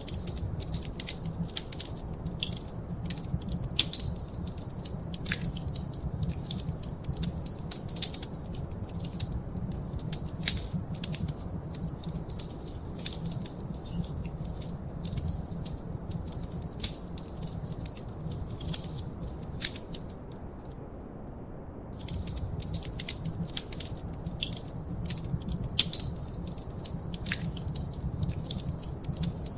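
Wood fire crackling in a fireplace: a dense run of sharp pops and snaps over a steady low rumble. About two-thirds of the way through, the crackling drops away for a second or so, then starts up again.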